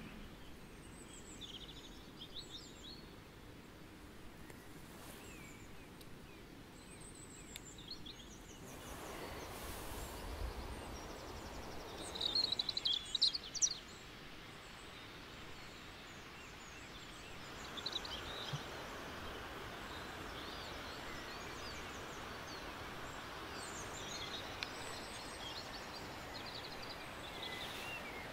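Small songbirds chirping and singing in a forest, with a louder burst of song near the middle. Under it runs a steady rushing background that grows louder in the second half.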